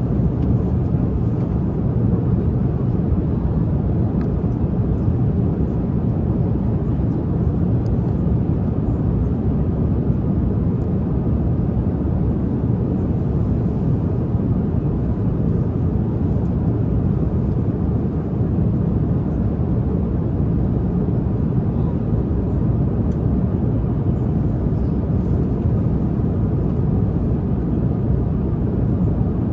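Steady low rumble of an airliner cabin in flight, the even drone of the jet engines and airflow.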